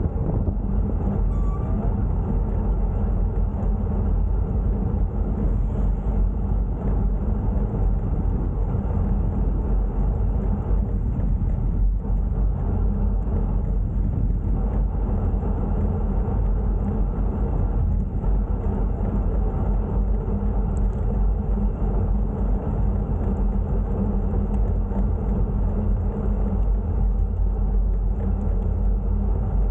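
Steady rumble of wind and road noise on the camera's microphone while riding a bicycle.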